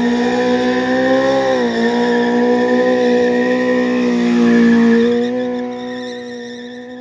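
Sport bike engine held at steady high revs, its pitch dipping briefly about one and a half seconds in, then fading away near the end with a falling pitch.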